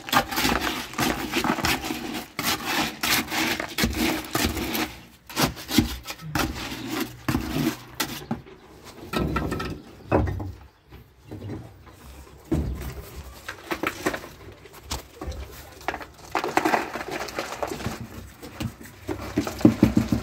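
Stones and gravel being handled and set in place: irregular knocks, clatters and scrapes of rock on rock and rubble.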